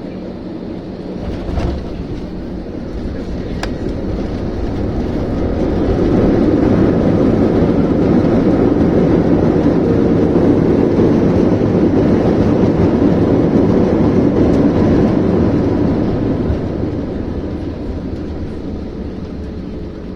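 Airbus A321 jet engines in reverse thrust just after touchdown, heard from inside the cabin: the engine noise swells over a few seconds, holds loud for about ten seconds, then dies away as the aircraft slows. A single thump comes about a second and a half in.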